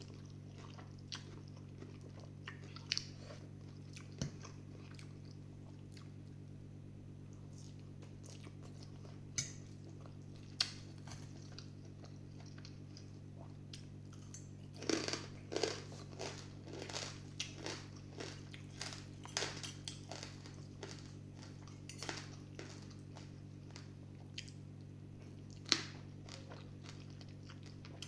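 A person eating noodle soup close to the microphone: scattered clicks of utensils, then a busy stretch of chewing and mouth noises about halfway through, over a steady low hum.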